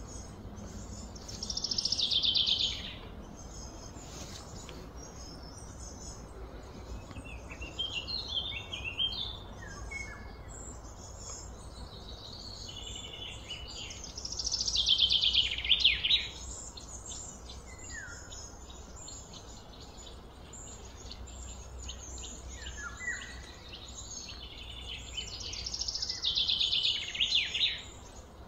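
Birds singing: a loud trilling phrase about a second and a half long comes three times, roughly twelve seconds apart, with shorter chirps in between, over a low steady rumble.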